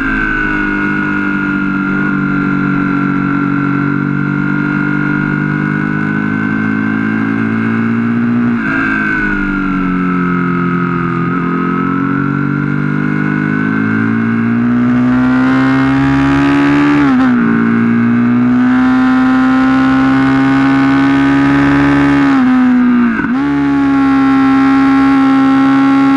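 Aprilia SL1000 Falco's 60° V-twin engine running hard on track, its note holding steady and gliding slowly through corners and dipping sharply in pitch three times, near 9, 17 and 23 seconds in, as it changes gear. Wind rush grows in the second half as speed builds.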